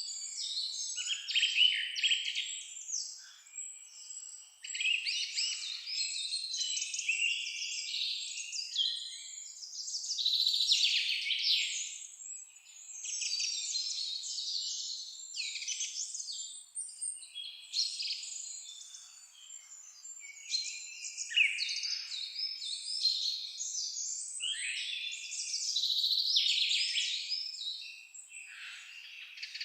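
Several songbirds singing at once: a dense, overlapping chorus of high chirps and rapid trills that swells and dips every few seconds.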